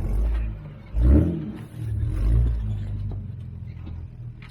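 An off-road 4x4's engine revving in short surges, about three in the first three seconds, then dropping back to a lower, steadier note near the end.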